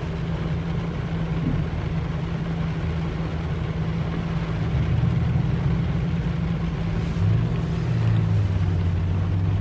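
Car running in heavy rain, heard from inside the cabin: a steady low engine hum whose pitch shifts about five seconds in and again near the end, over an even hiss of rain.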